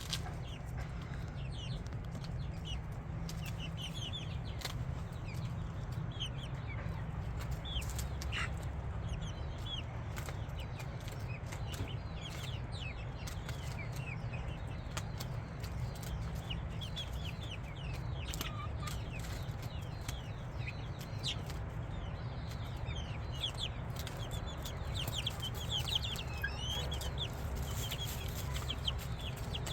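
A flock of chickens clucking, with many short, high, falling chirps throughout over a steady low hum.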